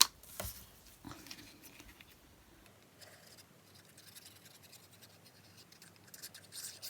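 Card stock and paper being handled at a craft desk: a sharp click at the start, then faint scattered rustles and scrapes, with a short cluster of rustling near the end.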